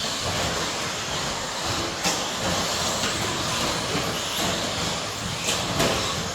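A pack of 1/10-scale electric 2WD stadium trucks with 13.5-turn brushless motors racing on an indoor track: a steady noisy din of motors and tyres, with a few sharp knocks about two seconds in and twice near the end.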